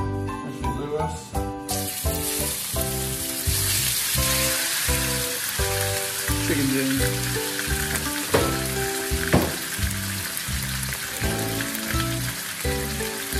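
Diced raw chicken sizzling in a hot wok, the sizzle starting abruptly about two seconds in, over background music with a steady beat.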